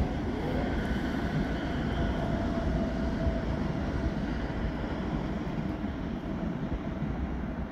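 Train running: a steady rumble with a faint whine over it, slowly getting quieter.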